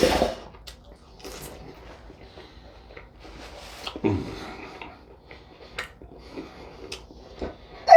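Close-miked eating noises: chewing with scattered light clicks of cutlery, a short sharp breath or sniff at the start, and a brief low falling sound about four seconds in.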